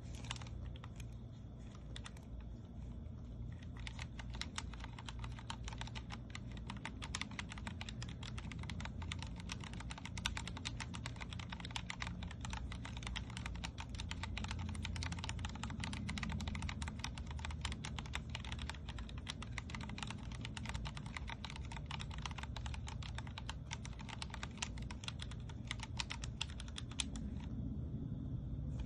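Typing on a Vortex Core 40% mechanical keyboard with Cherry MX Speed Silver linear switches: a few scattered keystrokes, then a fast, continuous run of key clacks from about four seconds in. The typing stops about a second before the end.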